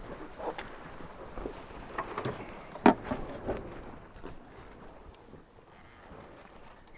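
Tornado racing catamaran under way through a jibe: wind and water rushing, with scattered knocks and rattles from the boat, the loudest a sharp knock about three seconds in, after which it settles quieter.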